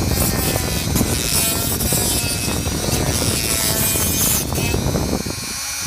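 Dremel-style high-speed rotary tool running against the steel of a drive shaft yoke, grinding out the U-joint keeper groove, with a steady high whine over a rough grinding rasp. Near the end the grinding rasp drops away and the tool's whine carries on.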